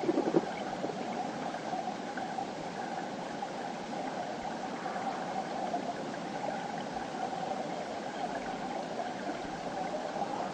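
Clear mountain river flowing steadily over rocks, an even rushing burble, with a brief louder splash or gurgle right at the start.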